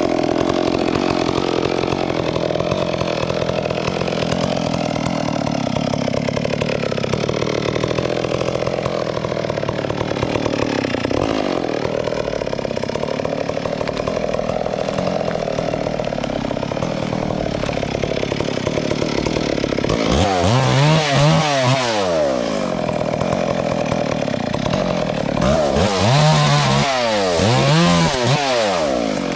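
A chainsaw running steadily under load while cutting through a log, its pitch wavering slowly. About twenty seconds in, and again about six seconds later, the engine revs up and down sharply in quick surges.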